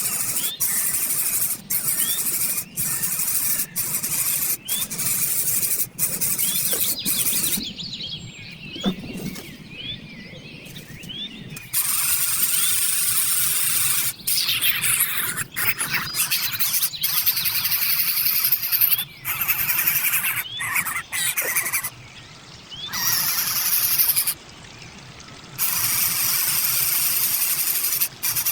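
Bird calling with short upward chirps about once a second, over a steady high hiss, with a few abrupt drops in level.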